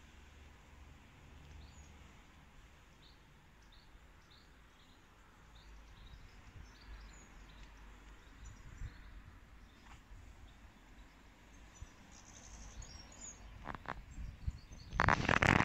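Birds chirping faintly in short repeated calls over a low rumble, with a burst of loud rustling and clicks near the end.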